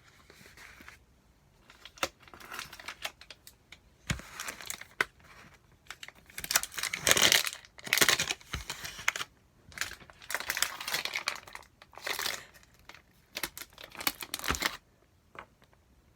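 Plastic food-delivery packaging being crinkled and torn open, in irregular crackling bursts that are loudest in the middle and stop near the end.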